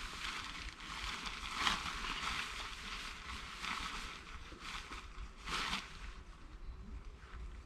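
Rustling and crunching noises, swelling louder about two seconds in and again near six seconds.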